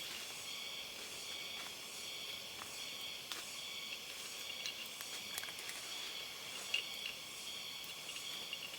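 Steady chorus of insects, crickets or cicadas, making a continuous high buzz, with a few faint clicks and rustles scattered through it.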